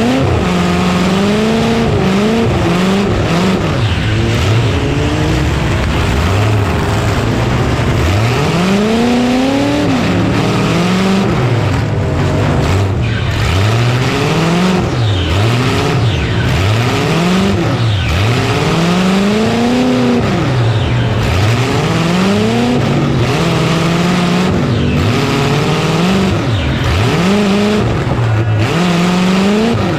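Demolition derby trucks' engines revving hard and dropping back over and over, loud and continuous, as the trucks rev to ram and reverse.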